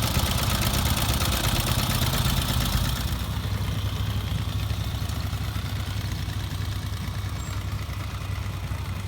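Ural 650cc air-cooled boxer twin on a 1999 sidecar motorcycle idling with a fast, even beat. It sounds duller from about three seconds in.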